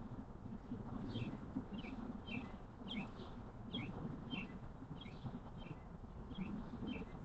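A small songbird giving a short, repeated chirp, roughly every half second, over a low steady rumble of outdoor background noise.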